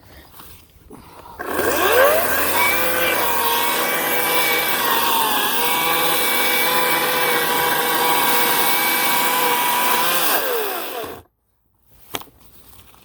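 Ryobi 18-inch electric chainsaw's motor and chain spinning up, running at a steady whine for about nine seconds with a brief dip in pitch partway, then winding down and cutting off abruptly.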